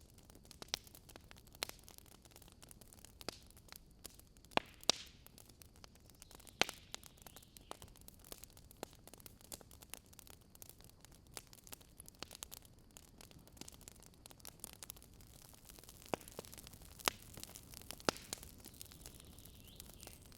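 Wood campfire crackling: irregular sharp pops and snaps over a soft, steady hiss, with a few louder cracks scattered through.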